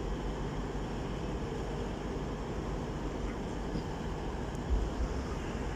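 Class 158 diesel multiple unit standing at the platform with its engines idling: a steady low rumble, with a couple of low bumps about five seconds in.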